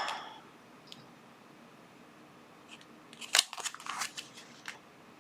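Scissors cutting open a small plastic parts bag: a brief rustle of packaging at the start, then a cluster of sharp snips and clicks about three to four and a half seconds in.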